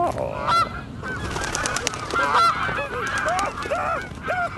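Many geese honking together, a dense chorus of short overlapping calls that rise and fall in pitch.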